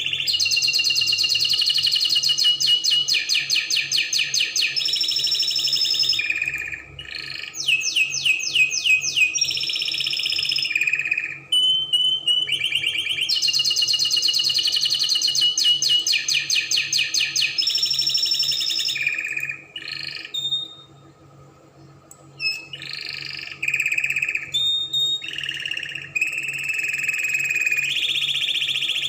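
Spanish Timbrado canary singing a long song of fast trills and rolls of rapidly repeated high notes, with a short break about two-thirds of the way through.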